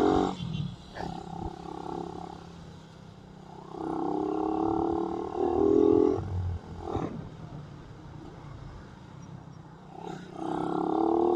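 Suzuki Raider 150 motorcycle engine pulling away three times, its pitch climbing each time, with quieter low running in between.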